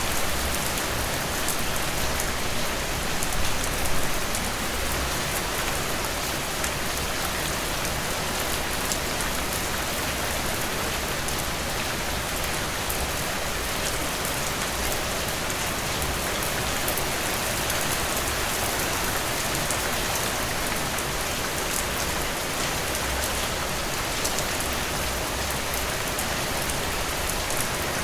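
Heavy rain pouring steadily, a dense hiss of drops hitting surfaces with a low rumble beneath, and a slight swell about four seconds in.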